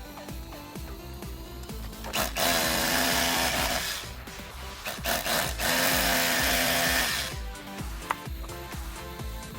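A power drill running in two bursts, the first about a second and a half long and the second about two seconds, over background music.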